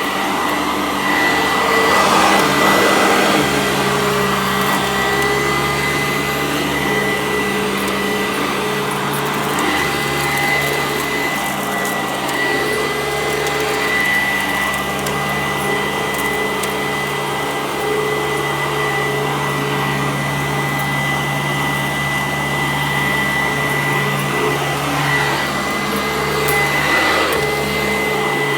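Sanitaire SC886 upright vacuum cleaner running steadily on carpet, its motor giving a constant high whine, with small swells in the sound as it is pushed over the carpet.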